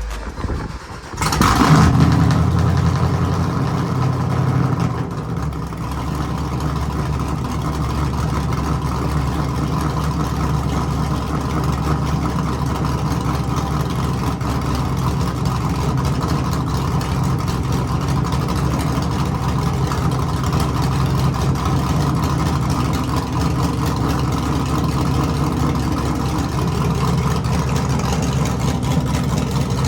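Cammed 5.3 LS V8 (Sloppy Mechanics stage 2 cam) starting up about a second in, running fast for a few seconds, then settling into a steady idle.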